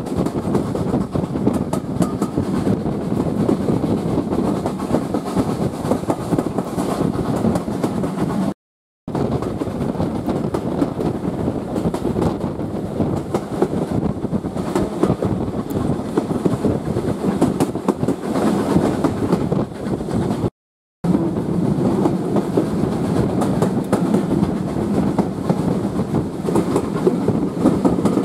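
A train on a heritage steam railway running along the track: a steady rumble with fine wheel clatter over the rails. The sound cuts out completely twice for a moment.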